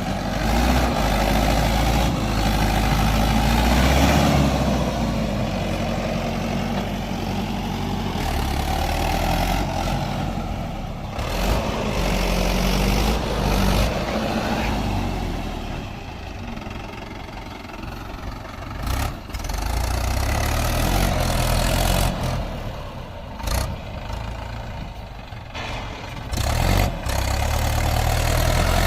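Mahindra 585 XP Plus tractor's diesel engine working hard while it tries to climb in soft soil. The engine speed rises and falls several times, with a few brief louder bangs in the second half.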